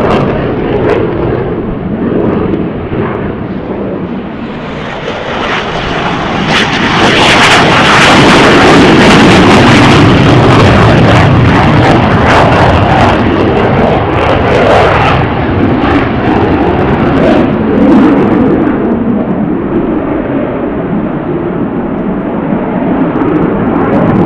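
Airplane engine noise from an aircraft going by, swelling about five seconds in, loudest through the middle, then easing a little but staying loud.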